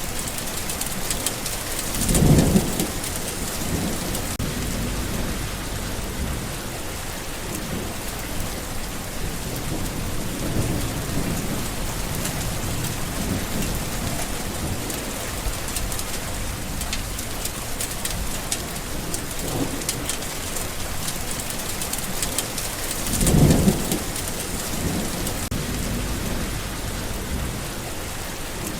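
Steady heavy rain falling, with a loud rumble of thunder about two seconds in and another some twenty seconds later.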